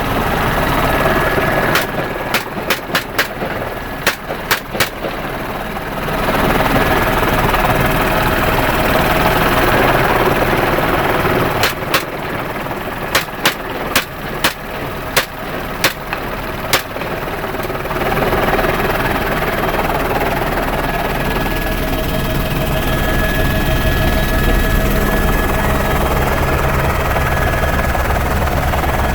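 Semi-automatic .223 rifle fired in quick strings of single shots over the steady noise of the helicopter's rotor and engine: about eight shots a couple of seconds in, about nine more around the middle, then only the helicopter.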